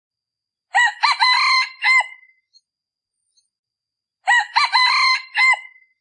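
Male decoy junglefowl rooster crowing twice, about three and a half seconds apart. Each crow is a short, clipped call of about a second and a half, used as a challenge to lure wild junglefowl cocks.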